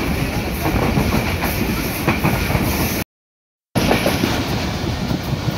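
Running noise of a moving passenger train, heard from inside the carriage: steady rattling and clattering of the wheels on the track. The sound drops out completely for well under a second about three seconds in, at an edit cut.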